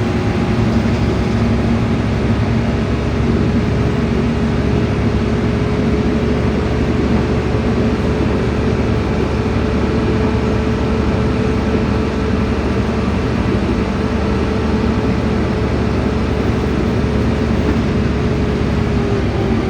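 Interior of a LiAZ-5292.65 city bus running at a steady speed: constant drivetrain and road noise with a steady whine. Right at the end the whine drops in pitch as the bus begins to slow.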